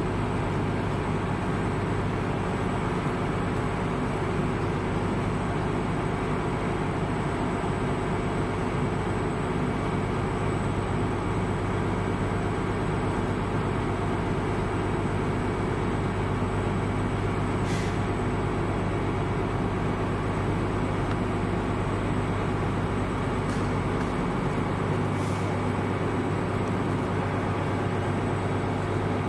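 Steady engine drone with a constant low hum, like a heavy vehicle idling; the deepest rumble drops away near the end, and a few faint clicks sound over it.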